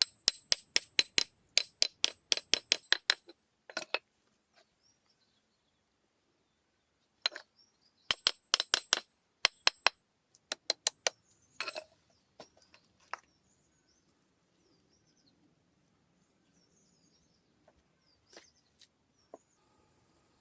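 Bursts of sharp metallic tapping from hand-tool strikes, about five a second, each strike with a brief ring, in two runs and then a few single hits. Faint bird chirps come in between.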